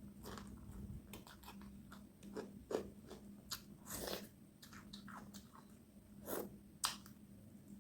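A person eating a meal close to the microphone: irregular chewing, smacking and crunching sounds.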